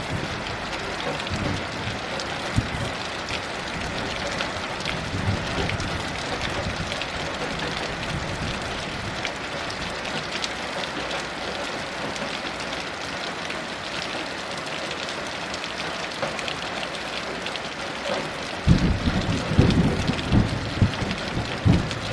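Heavy rain falling steadily. A low rumble of thunder rolls in near the end, with fainter rumbles near the start.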